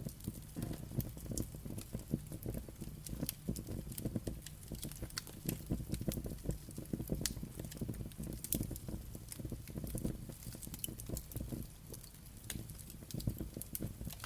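Wood fire burning: irregular sharp crackles and pops over a low, steady rumble of flames.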